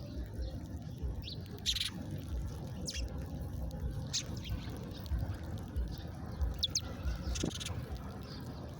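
Small birds chirping: short, separate high chirps every second or so, over a steady low rumble.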